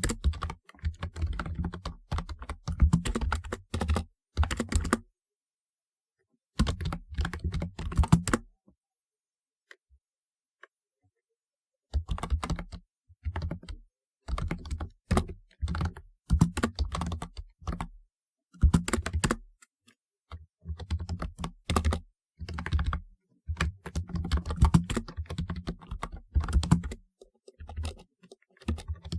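Typewriter-style keyboard being typed on: runs of rapid keystroke clicks in bursts, with a few pauses, the longest of about three seconds coming about a third of the way in.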